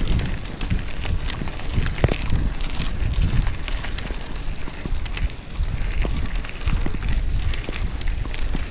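Bicycle ridden over a dirt trail: wind rumbling on the microphone, with an irregular crackle and clatter from the tyres and bike over loose stones.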